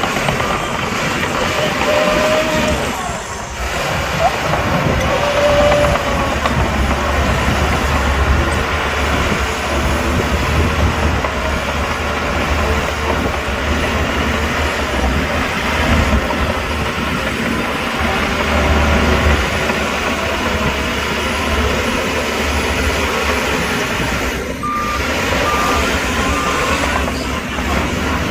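Heavy diesel earthmoving machinery (dump trucks and a bulldozer) running under load, a steady deep engine rumble. Near the end a reversing alarm sounds three short beeps.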